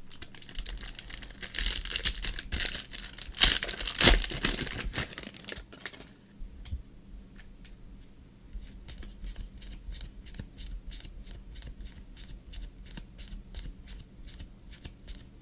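A trading card pack's wrapper being torn open and crinkled for several seconds. It is followed by a run of light, quick clicks, about four a second.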